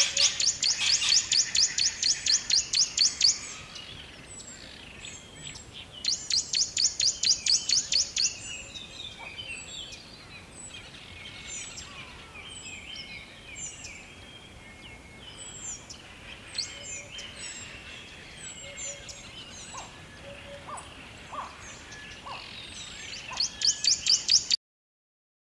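Forest birds chirping and calling, with a loud, fast, pulsing trill of about four pulses a second that comes in three bursts of a few seconds each. The sound cuts off abruptly near the end.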